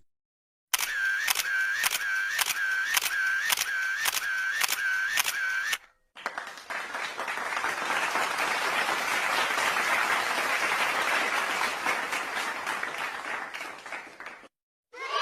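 Two sound-effect clips in turn: first a regular series of clicks, about two a second for five seconds, each with a short dipping tone; then, after a brief gap, a long dense noise that swells up and fades out over about eight seconds.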